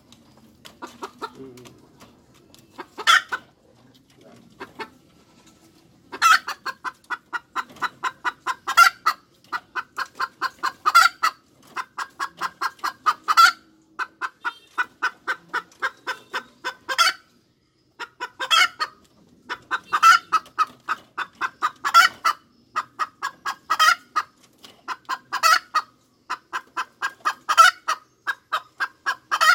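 Hen cackling: after a few scattered clucks, from about six seconds in a fast run of short clucks, about five a second, with a louder drawn-out squawk every two seconds or so. This is the cackle (cục tác) a hen gives around laying an egg.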